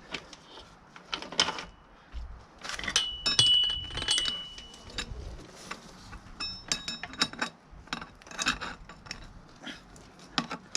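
Steel motorcycle drive chain clinking and rattling as it is handled, with sharp metal clinks throughout and short metallic rings about three seconds in and again near seven seconds.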